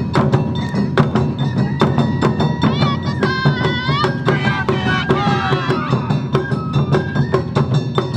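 Awa Odori ensemble music: sharp, evenly spaced strikes of drums and a small hand gong, stepped plucked notes, and a high gliding melody in the middle.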